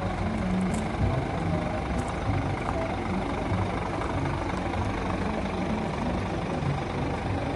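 Scania S500 truck's diesel engine idling steadily.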